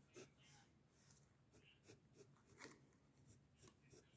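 Faint pencil strokes scratching on paper while sketching, short strokes coming irregularly about two or three times a second.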